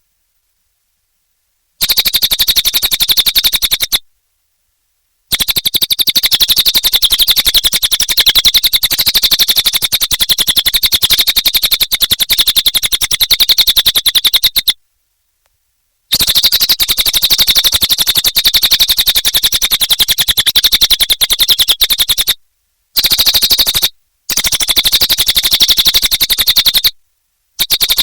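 Cililin bird song: a high-pitched stream of very fast repeated notes in long bouts, cut by abrupt silences near the start, at about 4, 15 and 22 seconds in, and twice near the end.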